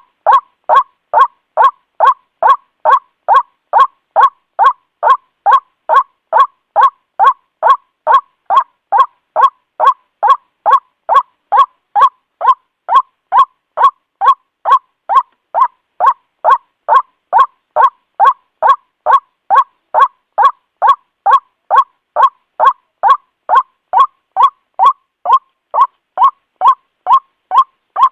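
White-breasted waterhen calling, a short note of the ruak-ruak call repeated steadily about twice a second.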